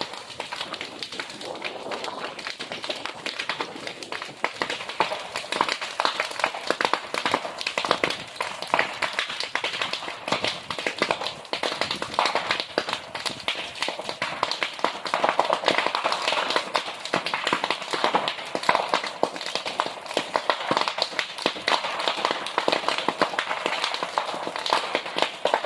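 Bonfire crackling, with a dense, steady run of sharp pops and snaps.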